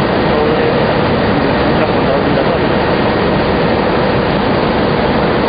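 Steady, loud noise of industrial processing machinery running, an even roar with no breaks.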